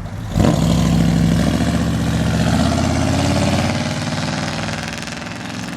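Car engine running with a steady low note, fading away over the last couple of seconds.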